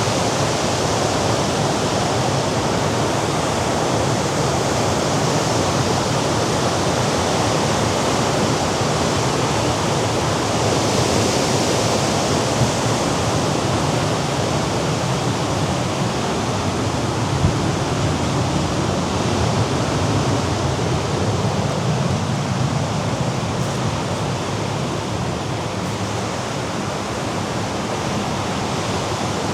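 Mediterranean sea surf washing over the rocks below the cliffs: a steady, unbroken rushing sound.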